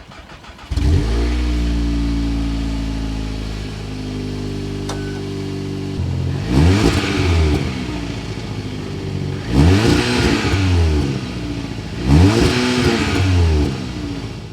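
2020 Volkswagen Golf R's turbocharged 2.0-litre four-cylinder petrol engine starting: it catches about a second in with a brief flare and settles to a steady idle. It is then revved three times, each rev rising and falling over a second or so.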